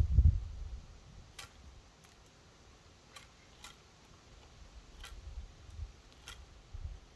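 Birds feeding at a wooden bird feeder: about five sharp, separate pecking clicks spread over several seconds, after a low thump at the start.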